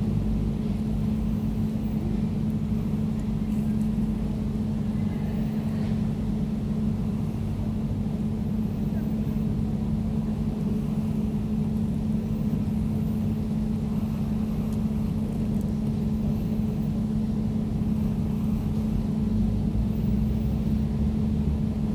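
Air conditioner running steadily: a low, even hum with one constant tone over a soft rushing of air.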